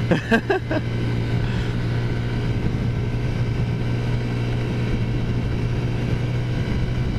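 Taotao 50cc four-stroke scooter engine running at a steady cruising speed, an even drone that holds the same pitch throughout.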